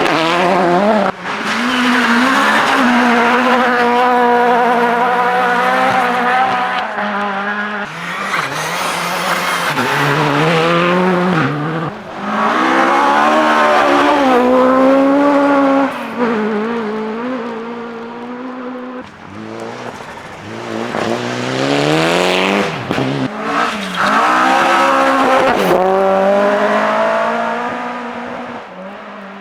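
Rally cars at speed on a forest stage, their engines revving hard and falling back through gear changes and lifts, with the pitch rising and dropping again and again. There are several separate passes with sudden breaks between them, and the last pass fades away near the end.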